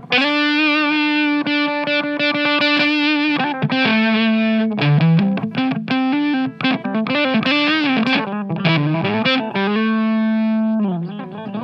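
Electric guitar played through an MXR MC402 Boost/Overdrive pedal with its gain up, giving a distorted lead tone. A long held note with vibrato opens, followed by shorter notes and string bends, and another long held note near the end.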